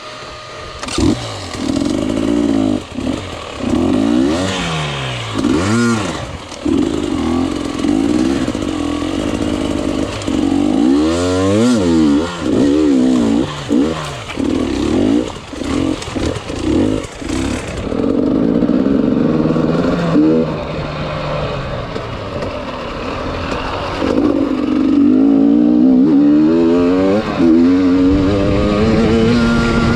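Enduro dirt bike engine revving up and down again and again as the throttle is worked, its pitch climbing and dropping every second or two, with a few short steadier runs.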